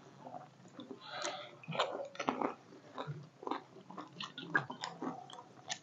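Pani puri being chewed close up: the crisp, hollow puri shells crunch and crackle in irregular small clicks as they are bitten and chewed.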